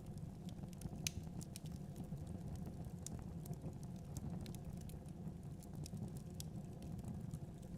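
Wood fire burning in a fireplace, with irregular sharp crackles and pops from the logs over a steady low rumble of the flames. The loudest pop comes about a second in.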